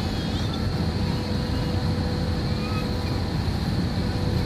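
Airliner noise: a steady low rumble with a faint, steady high whine running through it.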